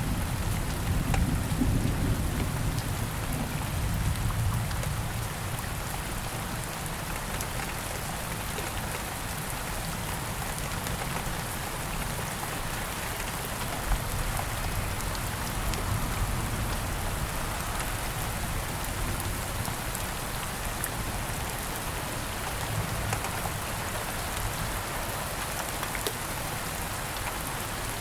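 Steady rain falling on leaves and ground, with scattered louder drops. A low rumble of distant thunder dies away over the first few seconds.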